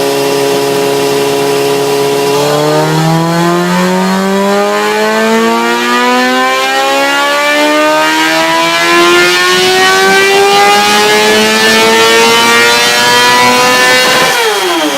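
Honda CBR 600 inline-four motorcycle engine and exhaust holding a steady rev for a couple of seconds, then climbing smoothly in pitch for about twelve seconds without a break. Just before the end the throttle closes and the revs fall quickly.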